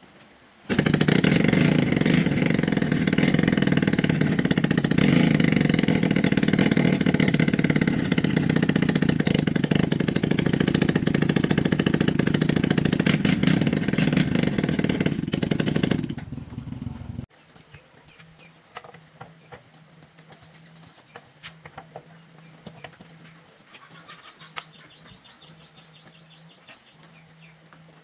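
A vehicle engine starts abruptly about a second in, runs steadily and loudly for about fifteen seconds, then dies away and stops. Faint bird chirps follow.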